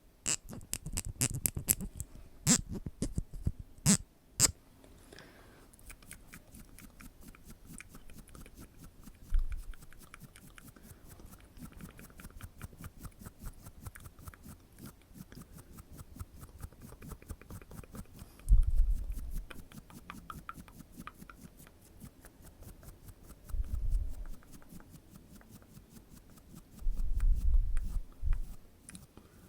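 Close-miked ASMR mouth sounds and tapping: a few sharp clicks in the first few seconds, then a steady stream of small rapid clicks, broken by dull low thumps in the middle and near the end.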